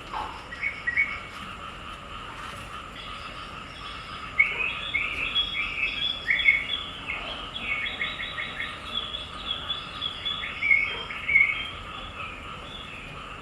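Birds chirping and twittering in short calls and quick trills, busiest through the middle, over a steady faint background hum.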